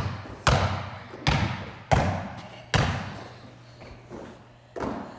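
A basketball bouncing on a hard floor: five sharp thuds, each with an echoing ring, coming roughly every second and then one more after a pause of about two seconds.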